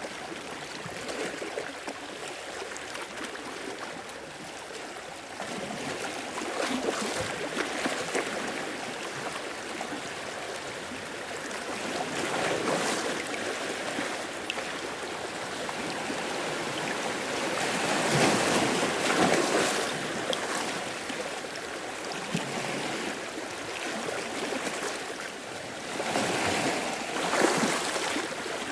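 Ocean waves washing in and breaking on the shore, swelling and easing every several seconds over a steady wash of surf.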